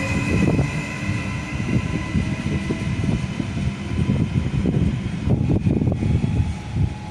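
A train's steady whining tones fade out about a second in, leaving a loud, uneven low rumble that swells and dips irregularly.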